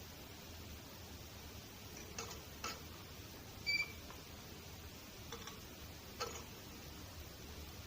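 Canary giving a few short, faint chirps spaced a second or so apart, with one clear high pip about the middle, over a low steady hum.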